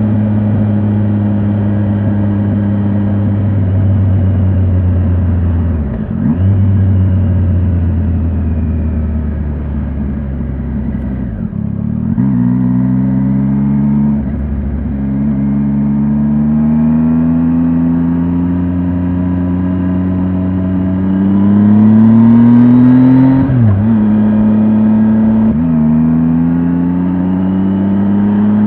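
Triumph Tiger 800 XRT's inline three-cylinder engine pulling under throttle, its pitch climbing steadily and dropping sharply at each gear change, several times over. The hardest, loudest pull comes about two-thirds of the way through, just before a shift.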